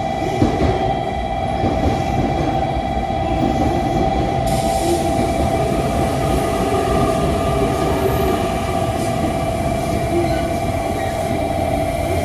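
Train running at a station platform: a steady rumble with a constant whine over it.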